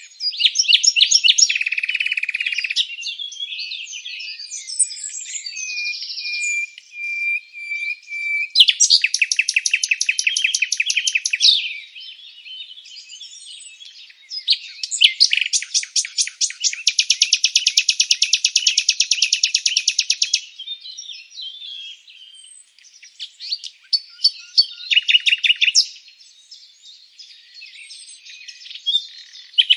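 Birds chirping and singing: varied high chirps and whistles, with long, fast trills about nine seconds in, from about fifteen to twenty seconds, and again around twenty-four seconds.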